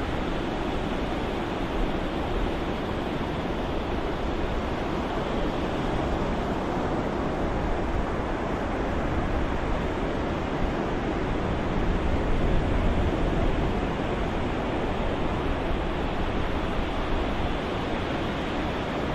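Ocean surf as a steady rushing white-noise soundscape, with a gentle swell in loudness about two thirds of the way through.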